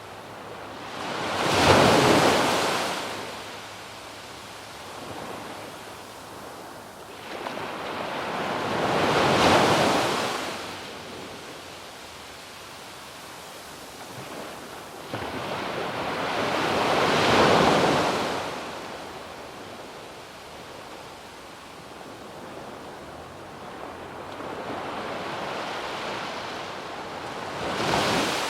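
Sea waves breaking on a sandy beach: four surges of surf about every seven to eight seconds, each swelling and then washing away, the last one softer and longer.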